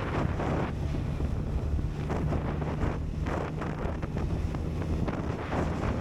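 Wind buffeting the camera microphone at road speed, with the steady drone of a Suzuki GSX1250FA's inline-four engine underneath.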